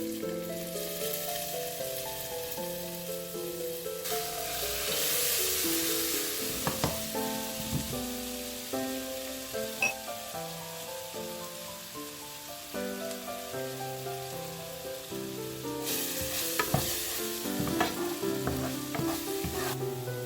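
Chicken pieces frying in hot oil with a steady sizzle that swells louder twice, with occasional sharp clicks of a utensil against the pan.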